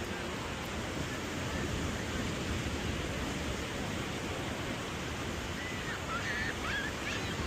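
A steady rushing wash of outdoor noise, with a few short, high, warbling whistles about six seconds in.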